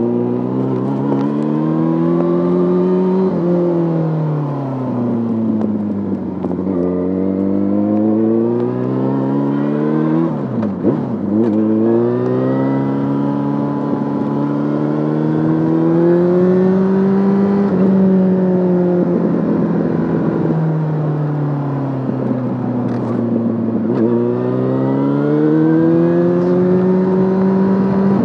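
Yamaha Fazer 600's inline-four engine through a handmade exhaust, ridden on the road: its pitch climbs and falls again and again with throttle and gear changes, with a sharp brief drop about ten seconds in.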